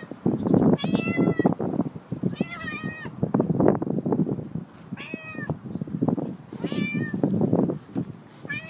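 Cat meowing repeatedly, about four short meows a second or two apart, with rough, noisy low sounds between the calls.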